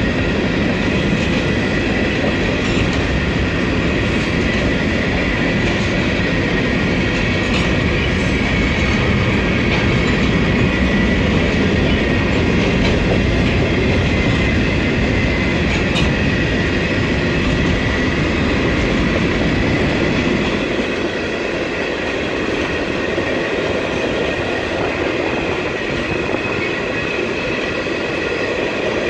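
Freight train cars rolling past on the rails: a steady rumble and clatter of wheels with a thin, steady high squeal above it. The low rumble eases about 21 seconds in.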